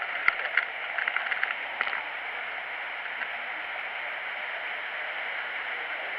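Steady rain falling, a continuous hiss, with a run of sharp drip-like taps in the first two seconds.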